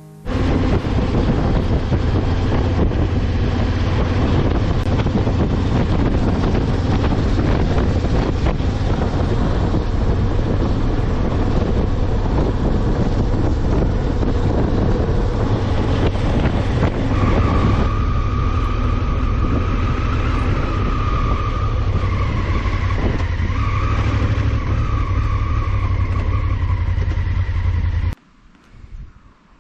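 Honda Africa Twin motorcycle running at road speed, with heavy wind rush over the microphone under the engine sound. A higher steady whine joins about two-thirds of the way through, and the sound cuts off suddenly shortly before the end.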